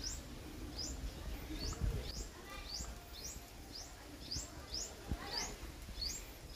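A bird calling with short high chirps that rise in pitch, repeated evenly about twice a second, over a low rumble with a couple of soft thumps.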